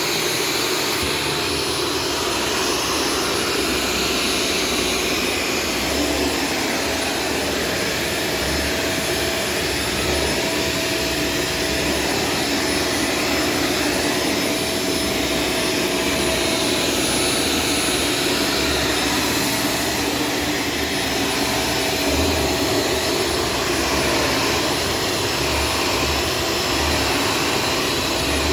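Shark Stratos vacuum cleaner running steadily: a constant rush of air with a thin high whine over it.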